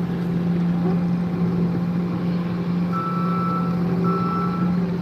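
A motor engine idling with a steady hum. From about three seconds in, a high electronic beep repeats about once a second, like a vehicle's reversing alarm.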